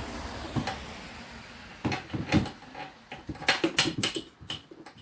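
A run of irregular clicks and knocks, several a second, starting about two seconds in after a fading rush of wind on the microphone. They come from the boat being jacked up onto a homemade wooden boat dolly.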